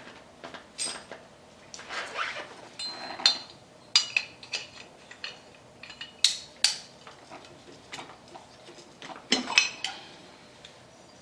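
Hand tools and small metal brake-caliper parts clinking and tapping against each other and a hard surface. The sharp clicks and short ringing clinks come at irregular intervals, the loudest about 3, 4, 6 and 9.5 seconds in.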